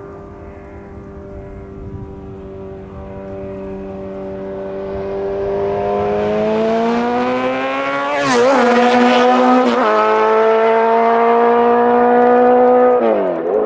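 Suzuki Hayabusa inline-four running through a full 4-into-1 VooDoo exhaust with the baffle in, growing louder and rising in pitch as it accelerates. The pitch dips briefly and recovers about eight seconds in, again near ten seconds, and near the end, like gear changes.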